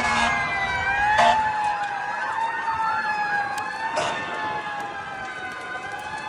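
Several emergency-vehicle sirens wailing at once, their overlapping tones slowly rising and falling, with two short knocks about a second and four seconds in.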